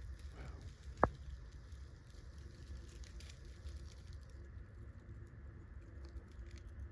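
Faint low rumble of outdoor background noise on a phone microphone, with a single sharp click about a second in.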